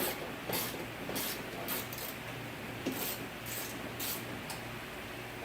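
Short, irregular scraping and rustling noises, every half second or so, from hand work on the parts inside a car door, over a steady low hum.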